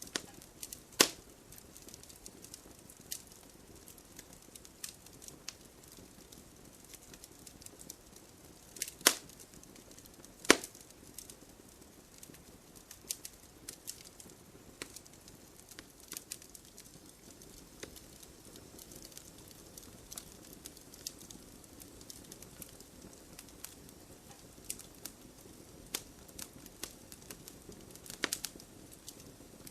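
Wood fire crackling: scattered small pops and snaps over a soft, steady hiss, with a few sharper, louder pops now and then.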